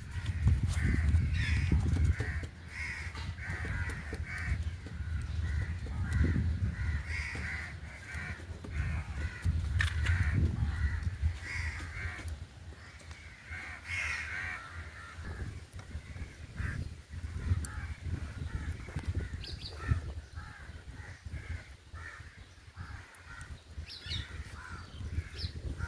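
Birds calling over and over, with bursts of low rumble that are loudest in the first two seconds.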